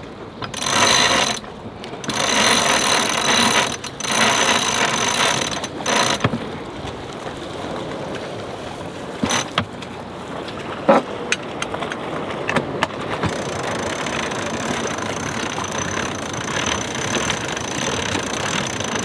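Sailboat cockpit winch clicking as it is cranked in three bursts in the first six seconds, hauling in a stern anchor line to steady the boat. After that comes a quieter steady noise with a few sharp clicks.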